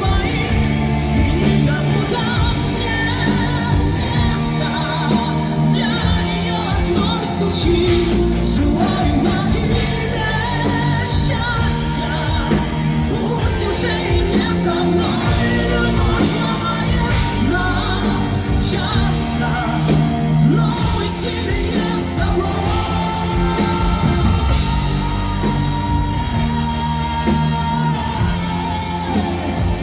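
Live pop-rock band music with singing, and shouts and yells over it.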